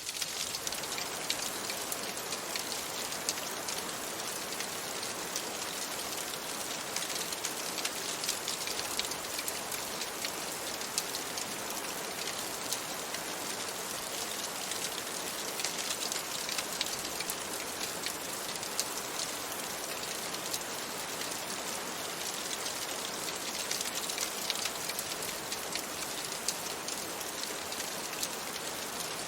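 Steady rain pattering on a window: an even hiss of rain with a dense scatter of fine drop ticks, unchanging throughout.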